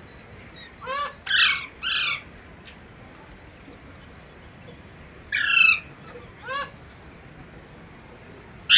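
Ringneck parrot calling: short bursts of loud, harsh pitched calls, a cluster about a second in, another around five to six seconds, and one more at the very end.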